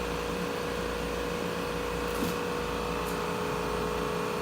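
Spindle of a 2008 Anderson 5x10 CNC router running steadily, a constant hum with a steady whine over machine noise.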